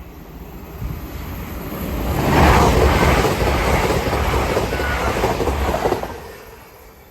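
TransPennine Express passenger train passing at speed: a rumble of wheels on rail that builds up, is loudest for about three and a half seconds, then fades quickly as it goes by.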